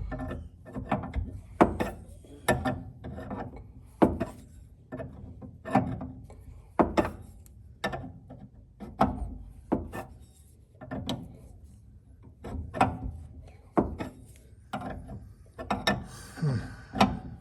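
A wrench tightening a threaded metal fitting into a fuel tank a sixteenth of a turn at a time: sharp, irregular clicks and knocks about once a second. A brief scraping rub comes near the end.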